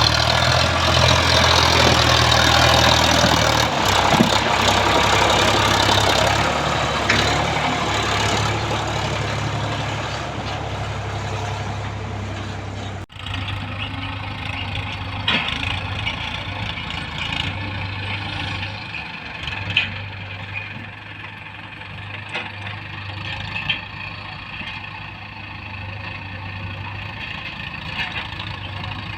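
Heavy diesel engine running steadily, louder over roughly the first ten seconds. After an abrupt break about 13 seconds in it continues more quietly, with a few scattered knocks.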